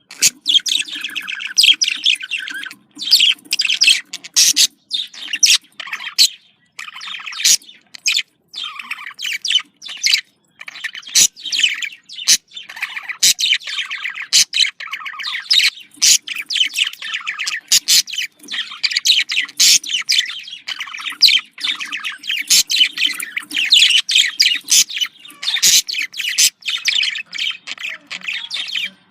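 Budgerigars chattering and warbling: a dense, almost unbroken stream of rapid chirps, squawks and sharp clicks with only brief pauses.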